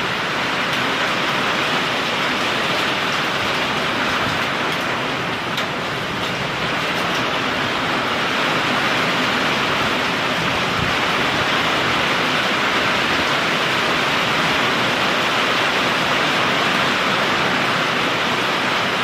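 Heavy thunderstorm rain pouring down in a loud, steady hiss. It is loud enough to sound like hail, but no hail was falling.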